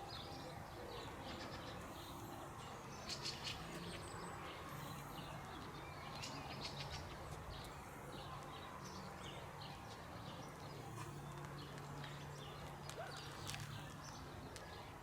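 Small birds chirping in short, repeated calls over a steady background hiss.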